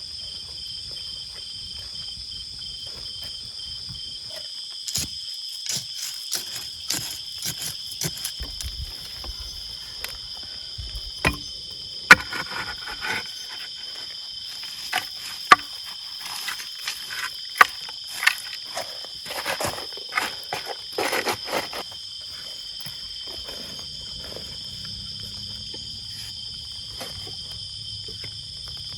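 Steady chorus of insects, crickets among them, holding several high shrill tones. From about five seconds in until past twenty seconds, irregular sharp clicks and knocks from something being handled sound over it, a few of them loud.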